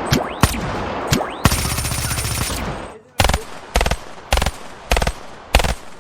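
Toy guns firing gunshot sound effects: a few single shots with a rising chirp, then a rapid machine-gun burst about a second and a half in. After a short gap comes a steady run of about six separate shots, roughly two a second.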